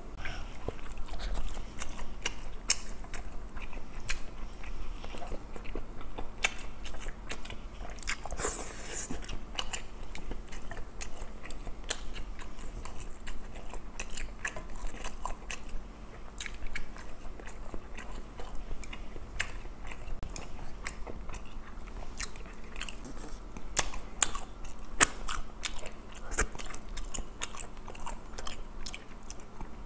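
A person chewing and biting grilled fish, mouth sounds with many sharp wet clicks and crunches throughout and a louder rustly burst about eight seconds in.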